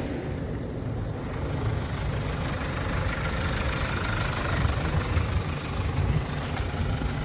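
2017 Kia Bongo III refrigerator truck's engine running steadily at a low pitch.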